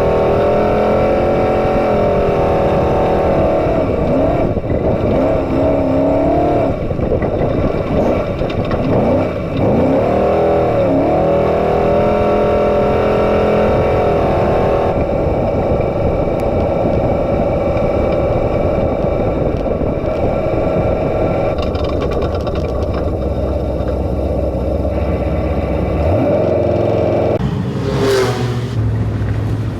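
Off-road race truck engine running hard, its pitch rising and falling repeatedly as it revs up and down. About 28 s in there is a brief loud rush of noise, like a vehicle passing close.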